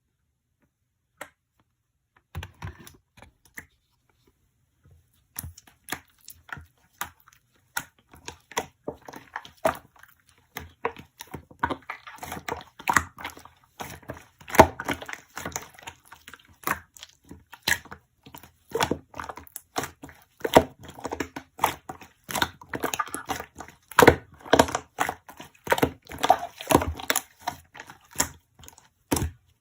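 Close-up handling noises: a quick, irregular run of clicks, taps and crinkles, starting after a couple of seconds of near silence and growing busier.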